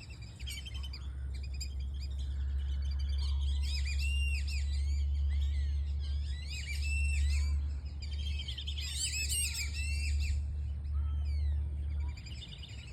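Birds chirping, with many short rising-and-falling chirps coming in clusters, over a steady low rumble that starts just after the beginning and stops about a second before the end.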